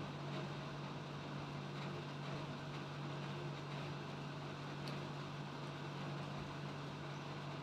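Steady low hum over a faint even hiss, with no distinct events.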